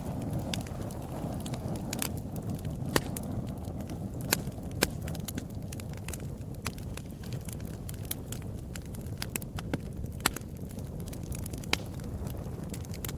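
Fire crackling in a fireplace: a steady low rumble with frequent sharp snaps and pops, a handful of them much louder than the rest.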